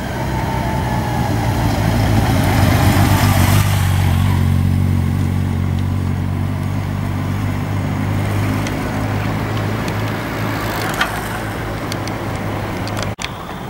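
Motor vehicle engine running with a steady low hum, growing louder over the first few seconds and then holding; the sound drops out for an instant near the end.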